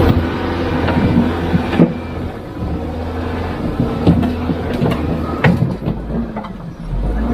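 Heavy construction machine's diesel engine running steadily, with several sharp metallic clanks and knocks over it.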